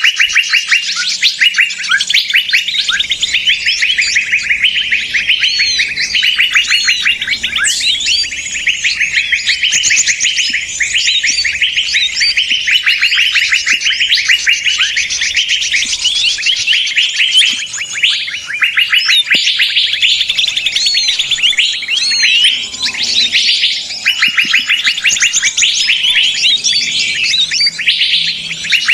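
Dense, noisy chorus of many small songbirds chirping and trilling rapidly without pause, a lure recording for trapping birds.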